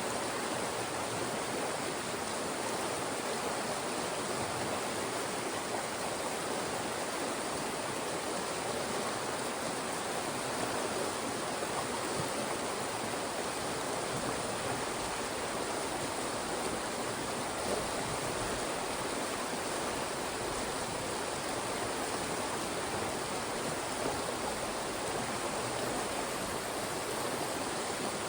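Fast-moving mountain stream rushing steadily through channels between rocks.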